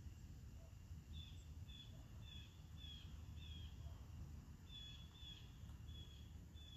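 Faint outdoor ambience: a bird gives a short, high, slightly falling chirp over and over, about every half second, with a brief pause midway, over a steady low rumble.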